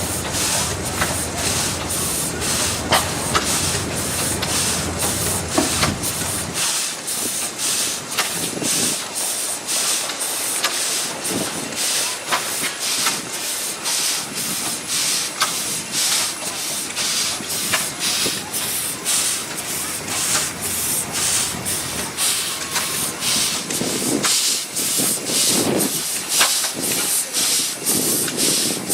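1909 Case 20-horsepower steam traction engine idling under steam: a steady hiss of steam with evenly spaced chuffs from the exhaust. A low rumble stops about six and a half seconds in.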